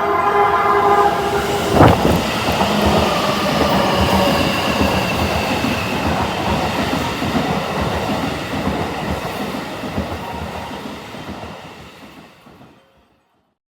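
Hankyu 2000 series train sounding a long horn, a chord of steady tones that cuts off with a knock about two seconds in. The train then runs past with wheel clatter and a slowly falling whine, fading away to silence near the end.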